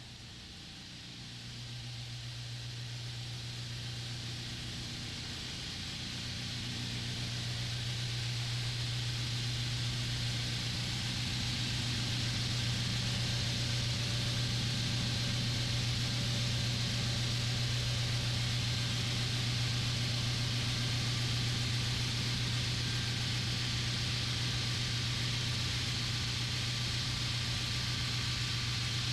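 Nidec OKK VM53R II vertical machining center running: a steady low hum with a broad hiss over it, growing louder over the first ten seconds or so and then holding steady.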